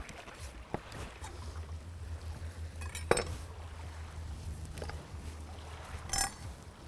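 Scattered knocks and clinks of cooking gear being handled: the loudest knock about three seconds in, and a ringing clink about six seconds in. A steady low rumble runs underneath.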